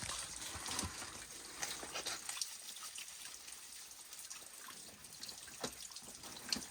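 Water trickling and dripping over rocks in a small stream, a steady splashing hiss, with scattered small clicks and taps through it.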